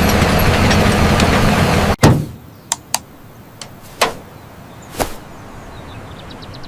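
Tractor engine running steadily, then cutting off abruptly about two seconds in. A loud knock follows, then a handful of sharp clicks and taps spaced roughly half a second to a second apart.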